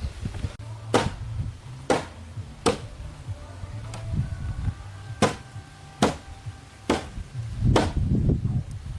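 Hand tool striking wood again and again, seven sharp blows a little under a second apart: a run of three, a pause, then a run of four.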